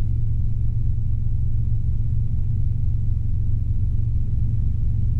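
Robinson R22 helicopter's four-cylinder piston engine and rotors droning steadily in a powered climb. It is a deep, even rumble with a fast regular pulse.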